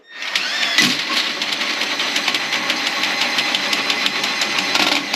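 Power drain auger running steadily, its motor whining as the spinning snake cable rattles in the toilet drain.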